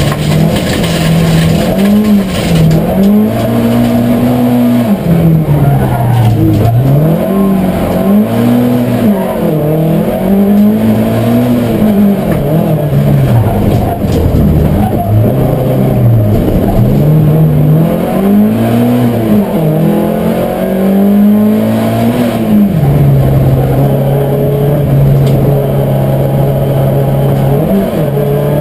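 Ford Sierra rallycross car's engine racing, heard from inside the cabin: the revs swing up and down over and over, then hold at a steady pitch for the last several seconds.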